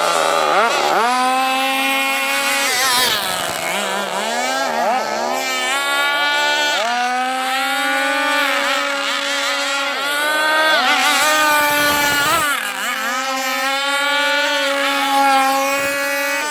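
Zenoah G260PUM 26 cc two-stroke marine engine of a gasoline radio-controlled boat running at high revs: a steady high-pitched note that drops and climbs back several times as the throttle is eased and opened again.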